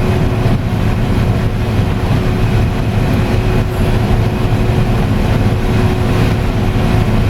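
Combine harvester running steadily while harvesting corn, heard from inside the cab: a constant loud drone with a thin steady hum above it.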